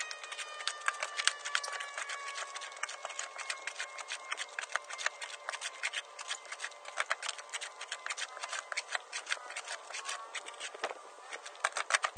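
Shovel digging into compost in a pickup truck bed and tipping it into a plastic wheelbarrow: a dense, irregular run of quick scrapes and crackles.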